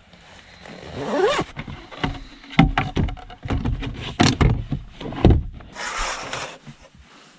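A rising creak about a second in, then a quick series of knocks, thumps and scrapes, as of things being handled and moved about inside a car.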